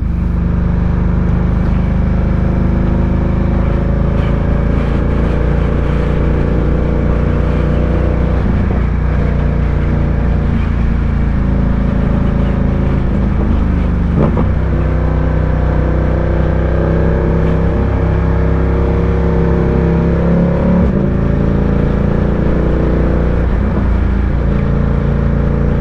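Ducati Diavel 1260's L-twin engine running steadily while under way, heard from the rider's position. Its pitch shifts as the throttle changes, once about halfway through and again a few seconds later.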